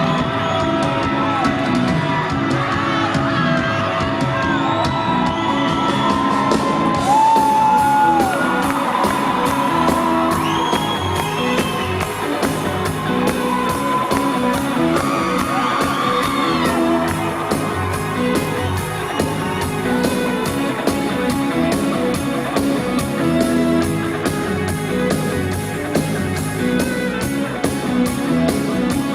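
Live band playing an instrumental introduction, with audience members shouting and whooping over the music.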